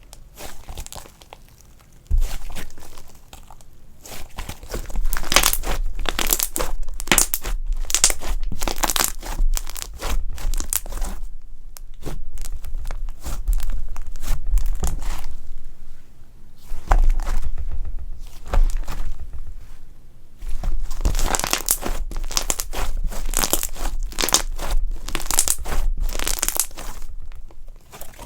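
Fluffy slime being squeezed, stretched and pulled apart by hand, giving repeated bursts of crackling, tearing sounds with short pauses between them.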